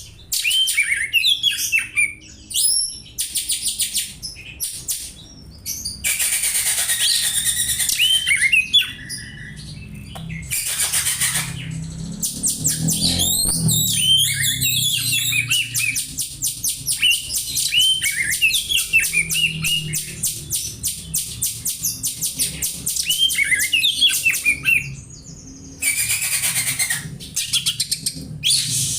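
Oriental magpie-robin singing, its song full of Eurasian tree sparrow calls: short chirps mixed with long, fast rattling trills, in bouts with brief pauses.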